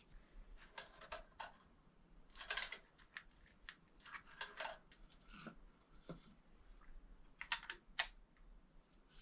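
Small parts and hand tools being handled at a workbench: scattered light clicks, taps and short scrapes, with two sharper metallic clicks near the end.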